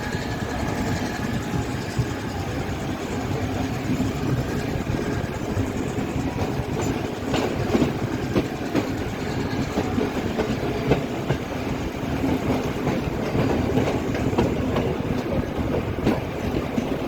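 Passenger train running at speed, with a steady rumble of the wheels on the track. Sharp clacks at irregular intervals come from the wheels crossing rail joints and yard points.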